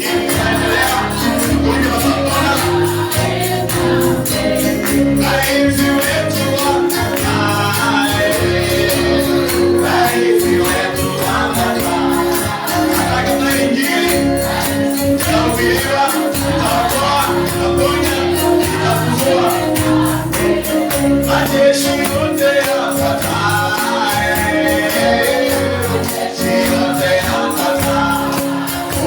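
Gospel praise-and-worship music: a group of voices singing together, with a tambourine beating a steady rhythm throughout.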